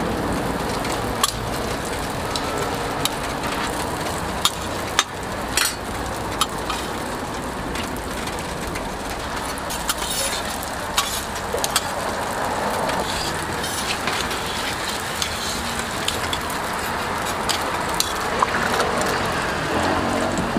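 Hotteok frying in oil on a flat steel griddle, a steady sizzle, with scattered sharp clicks and taps of a metal spatula against the griddle.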